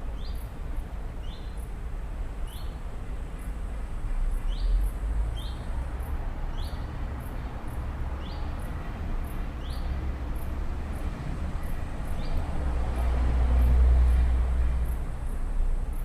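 Forest ambience: a bird repeats a short falling chirp roughly once a second over faint, regular high-pitched ticking, with a low rumble that swells twice, most strongly near the end.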